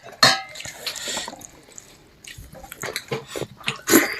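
Eating sounds at a meal: wet, smacking mouth noises and scattered clicks, with a brief vocal sound near the start.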